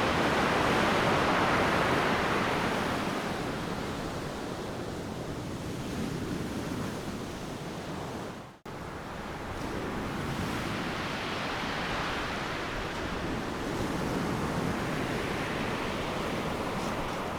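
Ocean surf breaking on a beach: a steady rushing wash that swells loudest near the start, eases off, then builds again with the next wave in the second half. The sound cuts out for an instant about halfway through.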